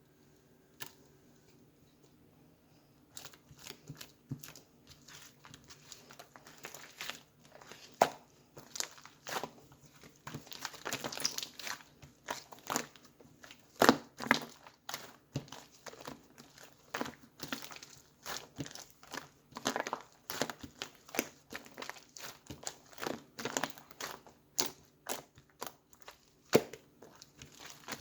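Hands squishing, stretching and pressing slime: a dense run of small wet clicks and pops, starting about three seconds in after a quiet start.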